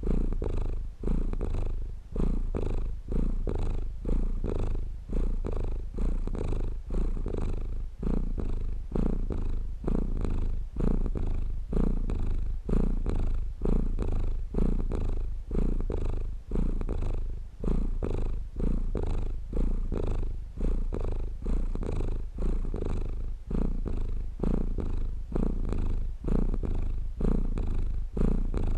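A domestic cat purring steadily and close up. The low rumble rises and falls in a regular rhythm, about once a second, as the cat breathes in and out.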